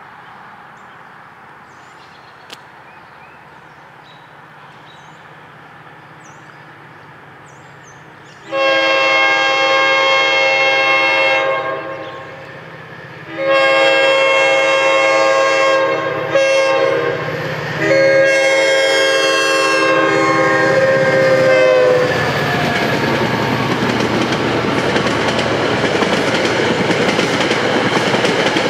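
Commuter train's horn sounding the grade-crossing signal, long, long, short, long, starting about eight seconds in. After that the train passes the crossing, its wheels rumbling and clacking on the rails.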